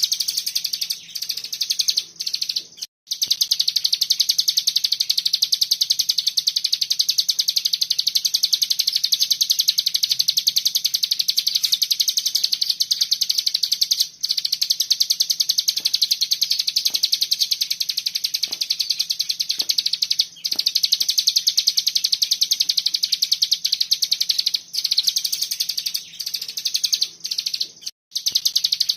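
Cigun songbird singing a 'bren' song: a high, very rapid, tightly packed trill poured out almost without pause, broken only briefly about three seconds in and again near the end.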